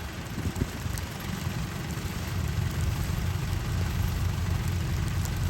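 Kubota combine harvester's diesel engine running steadily, with a low rumble that grows slowly louder.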